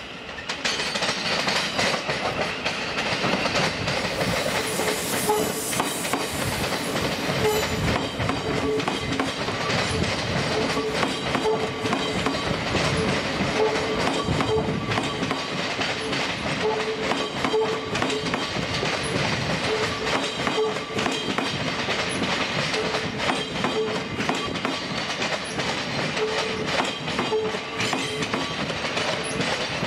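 Thameslink Class 700 electric multiple unit passing close by over pointwork. Its wheels clatter in a rapid run of clicks over the rail joints and points, and a mid-pitched tone cuts in and out.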